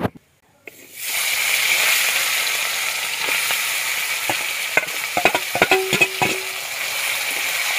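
Marinated chicken pieces dropped into hot oil in a wok, bursting into a loud, steady sizzle about a second in. A few knocks and a brief ringing tone come about five to six seconds in, as the steel bowl is emptied over the pan.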